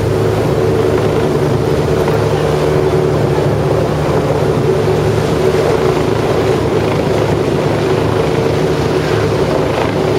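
Rescue helicopter hovering low overhead, its rotor chopping rapidly over a steady engine whine, with the rotor downwash blasting wind across the microphone.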